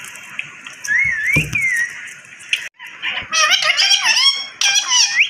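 Parrot calling: a short warbling whistle about a second in, then a run of rapid, chattering calls with quick rises and falls in pitch from just past three seconds on.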